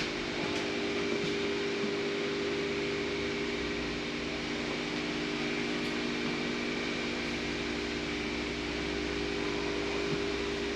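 Steady mechanical hum of a running motor, several held tones at an unchanging pitch.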